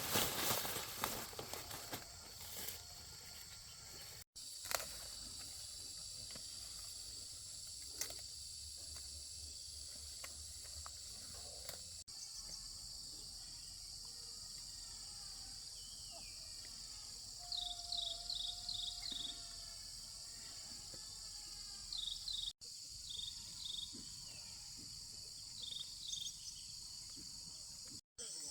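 Steady high-pitched chorus of insects such as crickets, with short repeated bird chirps in quick runs in the second half. A louder rough noise fills the first couple of seconds.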